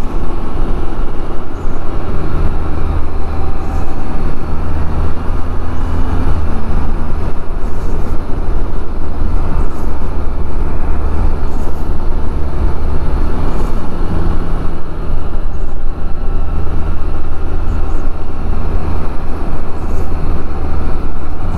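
Can-Am Spyder three-wheeler's Rotax 1330 three-cylinder engine running steadily at road speed, under loud wind rush on the bike-mounted microphone.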